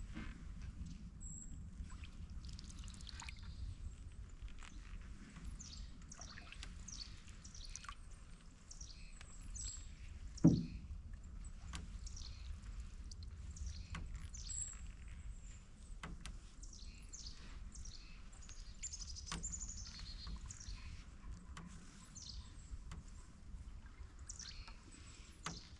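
Many small birds chirping in the swamp, a steady stream of short calls that fall in pitch, over a low steady rumble of water from the moving canoe. About ten seconds in there is one sudden loud sound that drops in pitch, the loudest moment.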